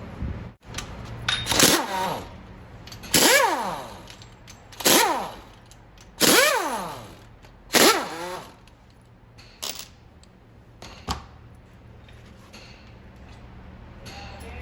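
A power tool run in five short bursts, its pitch falling each time as it spins down after the trigger is let go. Two short sharp clicks follow.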